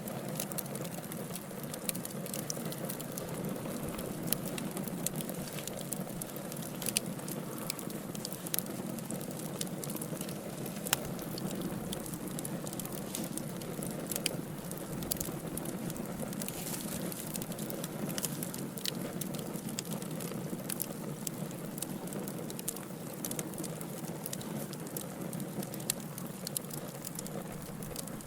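Wood fire burning steadily: a soft low rush of flames with frequent irregular sharp crackles and pops from the burning logs.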